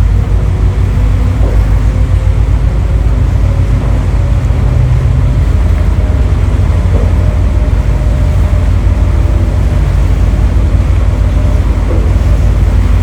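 Super Jet Miyajima high-speed passenger boat departing port, its engines making a steady low rumble.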